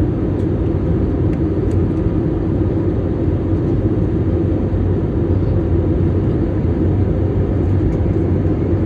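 Steady cabin rumble of an Airbus A320-family airliner in flight on approach: engine and airflow noise with a low steady hum.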